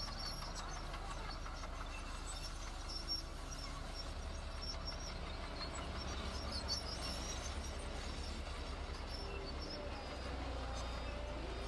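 Heavy diesel engine of an earthmoving machine running steadily with a deep, low rumble. The rumble pulses more strongly for a few seconds in the middle.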